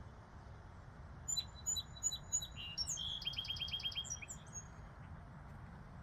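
A songbird singing a short phrase that starts about a second in: a string of high chirps followed by a quick trill of about seven notes, over a low steady background rumble.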